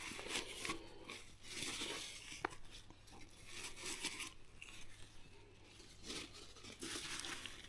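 Faint, intermittent wiping and rubbing as grit and dirt are cleaned out of small recesses on a motorcycle's front end, with a light click about two and a half seconds in.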